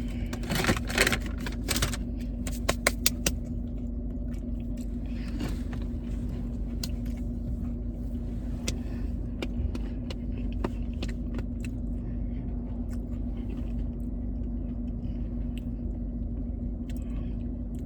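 Steady car cabin hum and road rumble while driving, with a constant low drone. Rustling and a few sharp clicks in the first three seconds.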